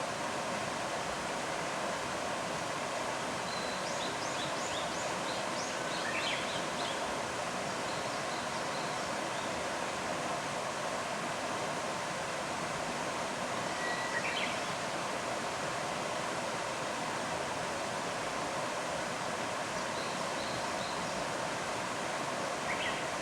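Steady rush of flowing stream water, with a few short high chirps of small birds now and then.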